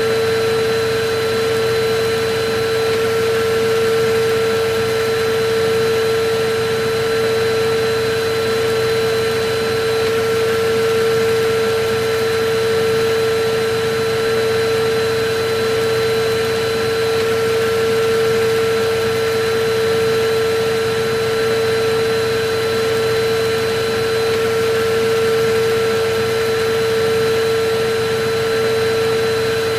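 Electric vacuum cleaner running steadily: a constant motor hum with a rush of air, unchanging throughout.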